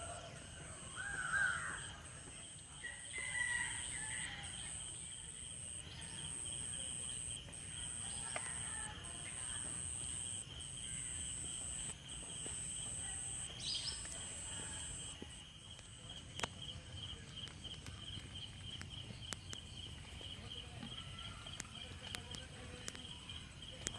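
Outdoor ambience of steady, high-pitched insect trilling, with a few bird calls in the first few seconds and one more about halfway through.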